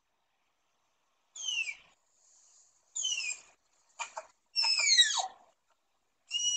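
An animal's high-pitched squealing calls: about five short whistles that each slide down in pitch, spaced out at first, then closer together and louder near the end.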